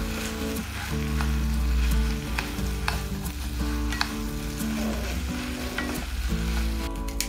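Beef and bok choy sizzling in an oiled pan as they are stir-fried and tossed, with scattered light clicks of a wooden utensil against the pan.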